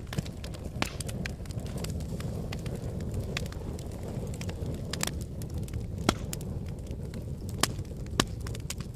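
Fire burning in a fireplace: a steady low rumble of flames with frequent sharp crackles and pops, the loudest pops coming about six, seven and a half, and eight seconds in.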